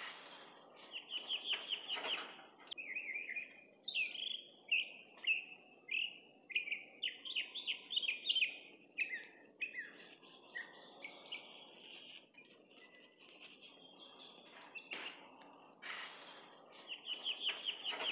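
Songbirds chirping and singing: quick runs of repeated high chirps and varied short phrases, over faint low background noise.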